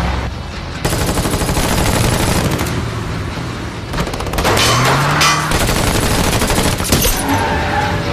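Rapid gunfire, many shots in quick succession, starting about a second in and running for about six seconds.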